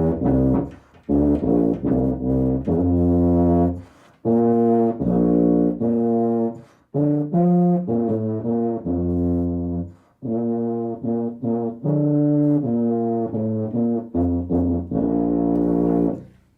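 A tuba playing a solo in short phrases of low notes, with brief pauses for breath between them. A final held note cuts off just before the end. The recording is made on a phone, which the player says makes her sound worse.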